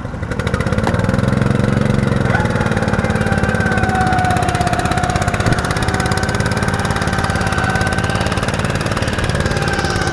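Garden tractor engine running hard with rapid, even firing pulses. It grows louder about half a second in and holds steady, with a thin steady whine above it.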